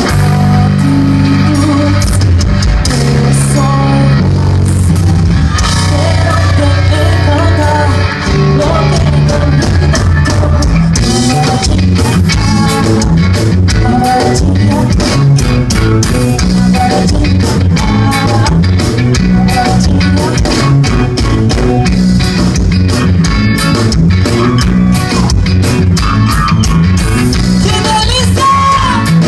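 Live pop-rock band playing loud, with electric guitar, bass, drum kit and a singing voice over a steady beat.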